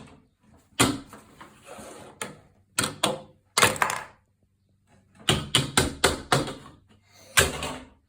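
Hard plastic toy clattering and knocking against a surface, in irregular sharp knocks, some in quick runs of three or four.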